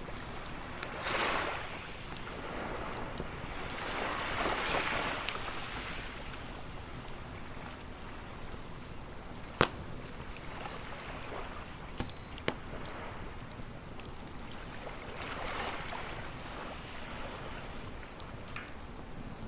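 Waves washing onto a beach, swelling three times, mixed with a wood campfire that crackles and pops now and then, with one sharp pop about halfway through.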